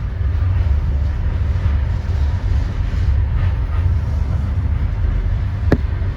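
Passenger train under way: a steady low rumble of the carriages rolling along the track, with one sharp click near the end.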